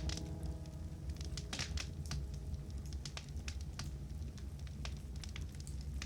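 Wood fire crackling in a fireplace: irregular sharp snaps over a low steady rumble. A held piano chord dies away during the first second or so.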